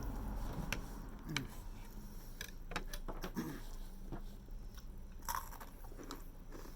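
Close-up chewing and mouth sounds of someone eating, with scattered small clicks.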